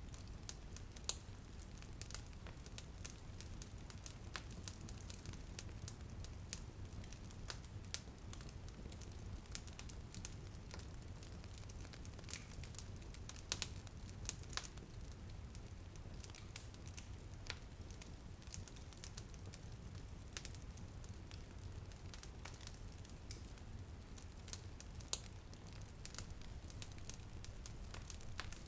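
Wood fire crackling in a fireplace, with frequent irregular sharp pops and snaps, a few louder ones, over a steady low rumble and light rain on a window.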